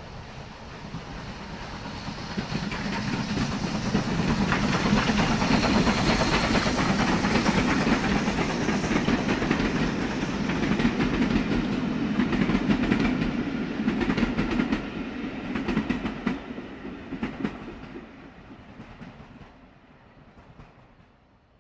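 A train passing: a rumble with the clatter of wheels over rail joints. It builds up over the first few seconds, stays loud for a while, turns to a run of sharp clicks, then fades away near the end.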